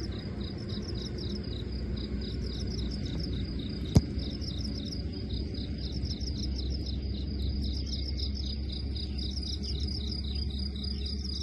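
Cricket chirping steadily in quick, evenly repeated high pulses, over a low rumble, with one sharp click about four seconds in.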